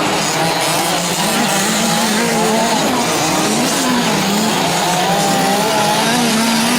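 Several 1/5-scale gas RC trucks racing together, their small two-stroke engines running at once with pitches constantly rising and falling as they accelerate and back off through the track.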